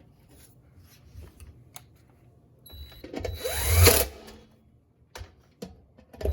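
Power drill running in short bursts, its whine rising in pitch as it spins up for about a second, then a shorter burst near the end, as it drives a screw.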